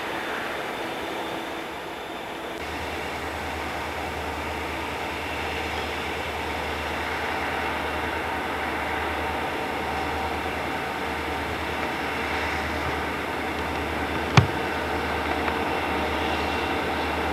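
Freight train cars rolling past, then CSX diesel locomotives moving along the line with a steady low engine rumble. A single sharp click about fourteen seconds in.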